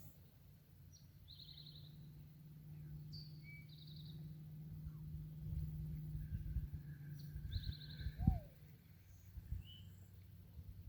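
Small birds singing short, rapid trilled phrases several times, over a steady low hum. About eight seconds in comes one brief, louder sound that falls in pitch.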